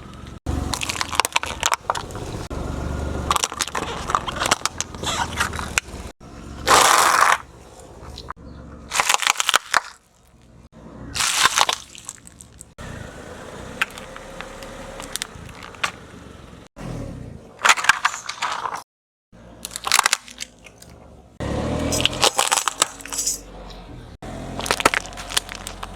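Objects being crushed under a car's tyre: a series of loud crunching and cracking breaks, in several short clips that cut off suddenly.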